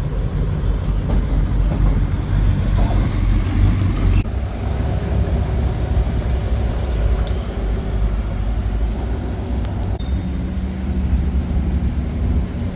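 Low, steady rumble of vehicle engines running. The sound shifts abruptly about four seconds in and again near ten seconds.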